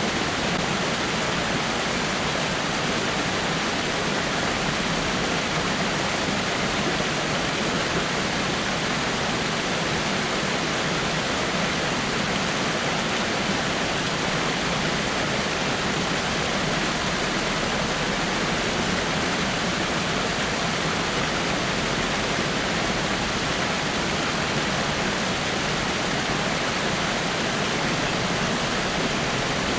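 Waterfall: water falling over rocks with a steady, unbroken rush.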